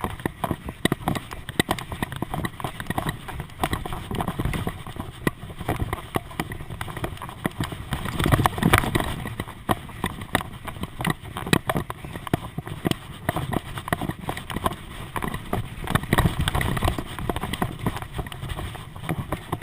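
Bicycle riding over a bumpy surface: continual irregular rattling and clicking over a low wind rumble, loudest about eight to nine seconds in.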